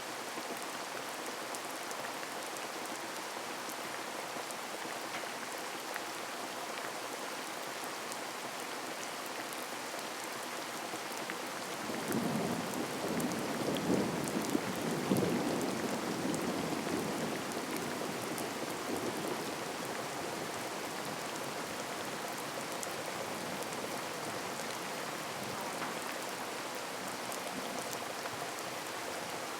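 Heavy rain falling steadily, with a low rumble of thunder that swells about twelve seconds in and dies away over the next several seconds.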